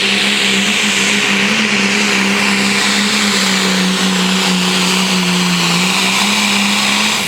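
10,000-pound Pro Stock pulling tractor's turbocharged diesel engine running hard at steady high revs, a held pitch under a loud hiss that sags a little about five seconds in.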